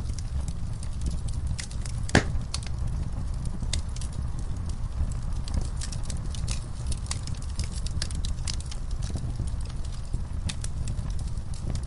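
Wood fire in a fireplace burning with a low steady rumble and frequent irregular crackles, with one louder pop about two seconds in.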